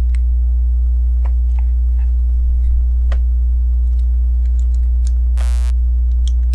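Steady, loud low electrical hum, with faint scattered clicks of plastic LEGO pieces being handled and pressed together and one short buzz about five and a half seconds in.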